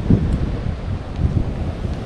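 Wind buffeting the microphone: a low, gusting rumble.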